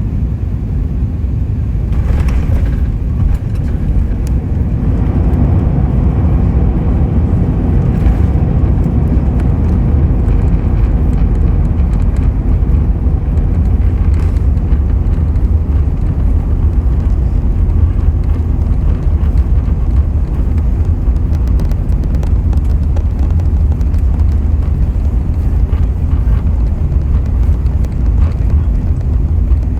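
Loud, steady low rumble inside the cabin of an Airbus A380 just after landing, from its engines and wheels on the runway, swelling a little in the first few seconds.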